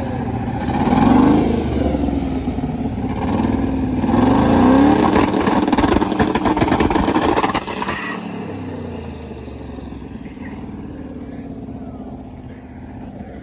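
Twin-turbo limousine engine revving, its pitch rising and falling several times, loudest about four to eight seconds in, then dropping back to a steadier, quieter run.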